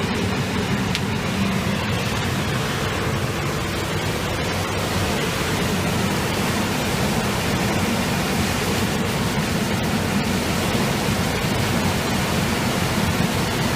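Bouncy castle blower running steadily, forcing air into a fire-brick forge's fire: an even rushing noise with a low hum beneath.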